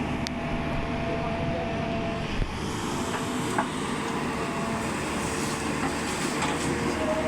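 Truck running: a steady low engine rumble mixed with rolling rattle and noise, with a few faint clicks.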